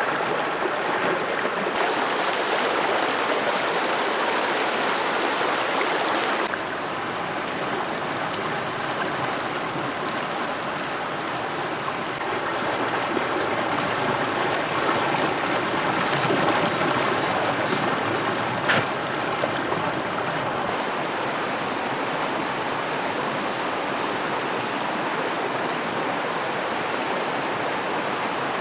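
Creek water rushing steadily over rocks, its tone shifting abruptly a few times. A single sharp click about two-thirds of the way through.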